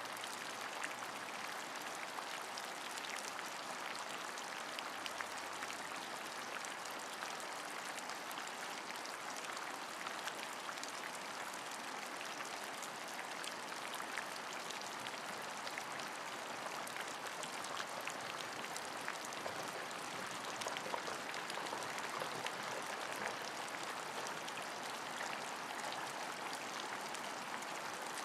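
Steady rainfall, with many small individual drop ticks over an even hiss.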